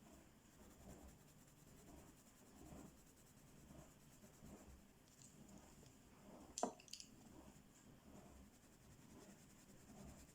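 Faint scratching strokes of coloring on a paper page, with a sharp click about two-thirds of the way in and a smaller one just after.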